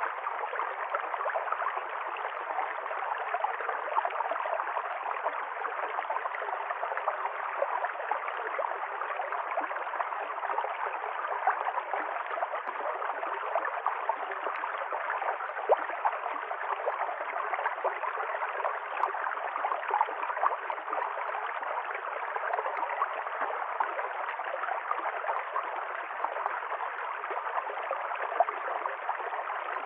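River stream running steadily over rocks, a continuous babbling and gurgling of water.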